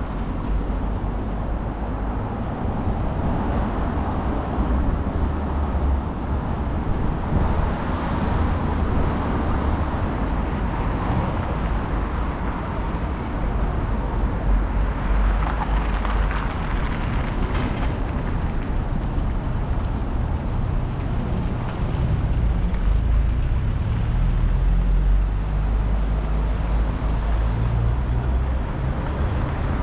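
City street traffic: a steady din of passing cars and other vehicles, swelling and easing as they go by.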